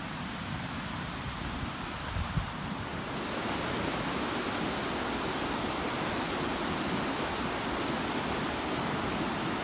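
Ocean surf rushing steadily onto the beach, with wind rumbling on the microphone; the surf grows louder about three seconds in.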